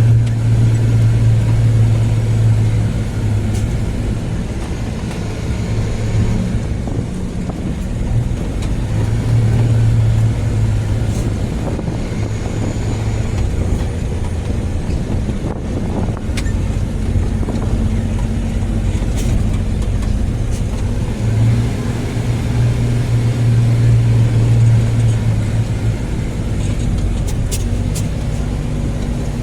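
A car being driven, heard from inside: a steady low engine drone with road and tyre noise, the drone swelling and easing a few times.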